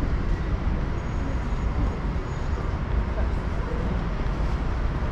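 Steady low rumble of city traffic, with faint voices.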